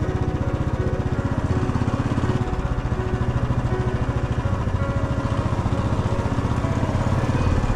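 Motorcycle engine running steadily while riding, with an even, rapid pulsing beat.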